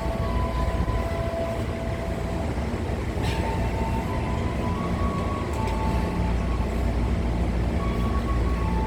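Train running with a steady low rumble, faint high tones shifting in pitch above it, and a short hiss about three seconds in.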